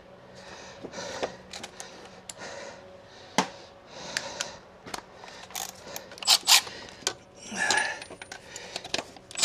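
Irregular metallic clicks, taps and clinks of a socket and small metal parts being handled while the oil pressure sending unit is worked loose, with soft rustling between; the sharpest click comes about three and a half seconds in, and two more come close together around six and a half seconds.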